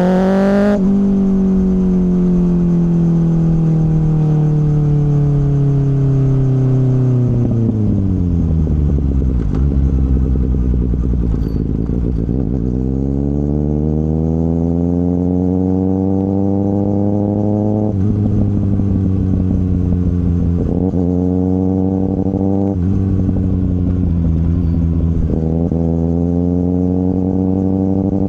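2024 Kawasaki ZX-6R inline-four running through an M4 slip-on exhaust. An upshift comes just after the start, then the engine winds down steadily as the bike slows. It then accelerates hard through the gears, pulling up in pitch and dropping back at each of four quick upshifts in the second half.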